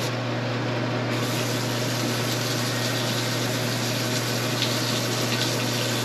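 Water rushing steadily in a clogged drain line, starting about a second in, over a steady low hum. The main-line clog has just been disturbed by the sectional snake.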